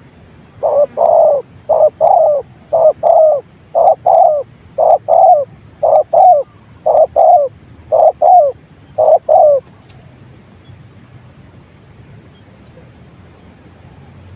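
Spotted dove (tekukur) cooing close by: a loud two-note coo repeated nine times at about one a second, stopping about ten seconds in.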